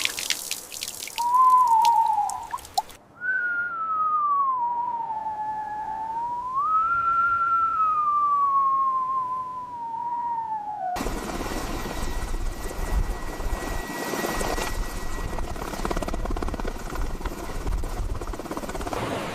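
Storm soundscape: rain patter for about three seconds, then a single eerie tone that wavers up and down for several seconds, then steady rushing wind and surf.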